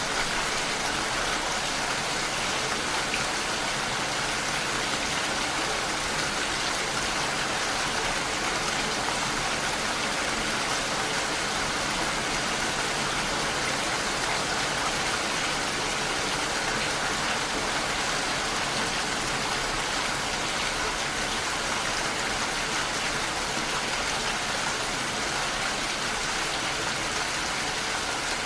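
Steady rain falling: an even, unbroken hiss of drops that holds the same level throughout.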